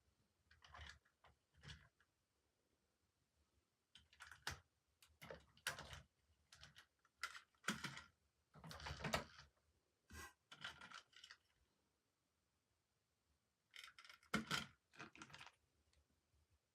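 Toy packaging being handled and opened: irregular short rustles, clicks and scrapes of plastic and cardboard, in clusters with quiet gaps between.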